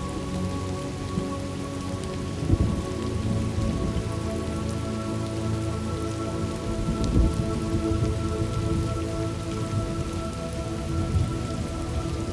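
Steady rain with thunder rumbling. The rumbles are loudest about two and a half seconds in and again about seven seconds in.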